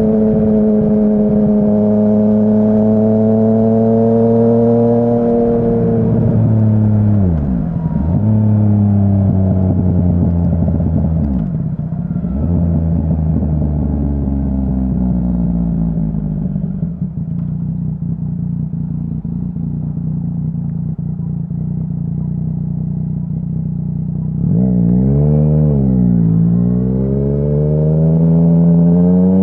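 Yamaha Tracer 900's three-cylinder engine through an aftermarket full-system exhaust, heard from the rider's backpack on the move. It runs at steady revs, falls away with two sharp dips in pitch, runs low and steady for about ten seconds, then swings up and down briefly and climbs in revs toward the end.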